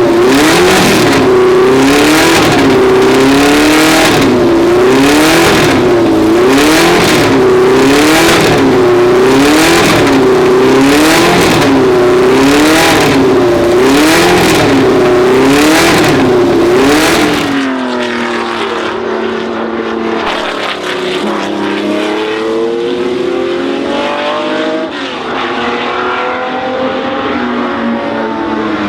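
Historic racing car engine, loud, its pitch rising and falling in a regular cycle about once a second. About 17 seconds in it gives way to a quieter racing engine accelerating with several rising sweeps in pitch.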